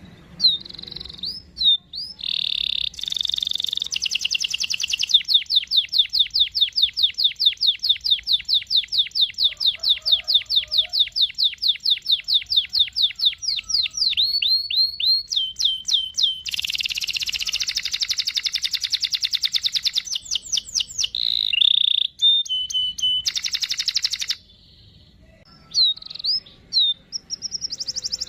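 Domestic canary singing: a long, fast rolling trill of repeated notes that lasts about ten seconds, among varied phrases of chirps and short whistles, with a brief pause near the end.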